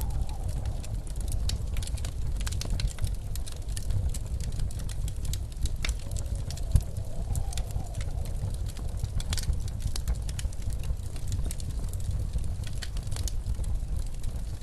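Wood fire crackling and popping in a fireplace over the low steady rumble of blizzard wind. A faint howl of the wind rises and falls twice, near the start and again about halfway through.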